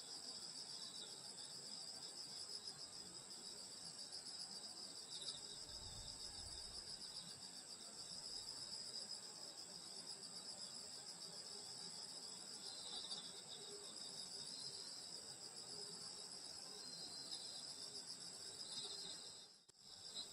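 A steady chorus of crickets and other grass insects singing on a summer night, a continuous high, finely pulsing trill with a few fainter chirps mixed in. It dips out for a moment near the end.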